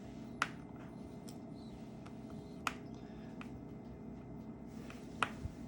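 Four faint, sharp clicks of a small precision screwdriver tip against the phone's tiny screws and metal home-button bracket as a screw is worked loose, over a steady low background hum.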